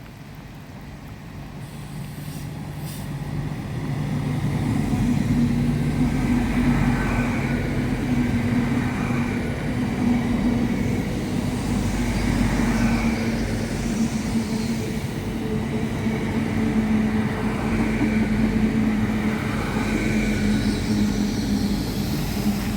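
LNER Azuma Class 800 bi-mode train passing through without stopping, running on its diesel engines. The sound builds over the first few seconds into a steady engine hum and wheel rumble that holds to the end.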